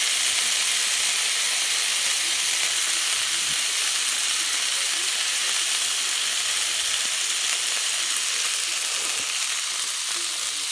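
Beef burger patty and potato rounds sizzling steadily on a hot flat-top griddle, the patty pressed flat under a stainless steel burger smasher and wax paper. The sizzle eases slightly toward the end.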